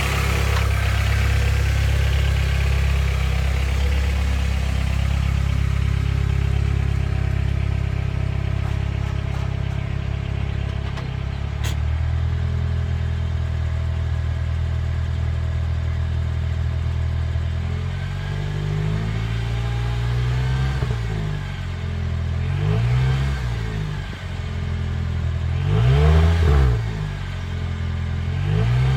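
Acura TSX exhaust, its mid-muffler/resonator replaced by a straight pipe, idling on a cold engine and then given several light throttle blips. Each blip is a short rise and fall in pitch, and they come over the last third; the biggest is near the end.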